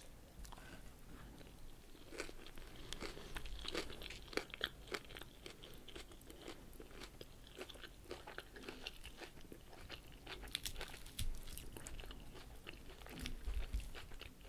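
Close-miked crunching and chewing of a mouthful of crisp salad leaves, a dense run of short crackly crunches.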